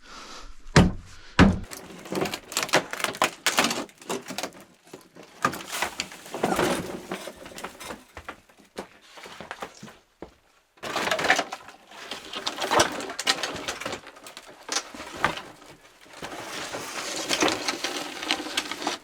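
Irregular knocking, clattering and scraping of junk and debris being pulled out and dropped during cleanup of a small room, with a sudden break a little past the middle.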